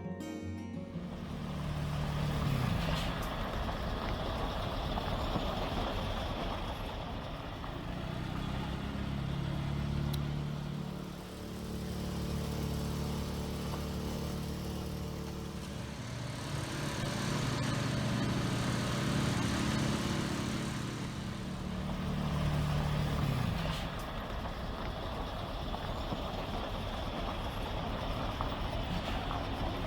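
Heavy diesel engine of a truck or lifting rig running, its note swelling and easing off several times as it is worked, with a brief drop about eleven seconds in.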